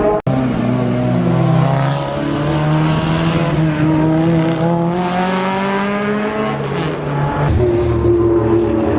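Car engines running, their pitch slowly rising and falling as the cars move, with a short break about a quarter of a second in.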